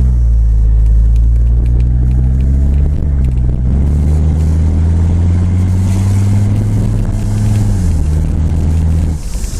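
1982 Mercedes-Benz 300TD's OM617 five-cylinder turbodiesel running straight-piped, with no muffler, under way, heard from inside the car with the windows down. The engine note climbs slowly, then drops near the end, with the Garrett turbo's whistle over it.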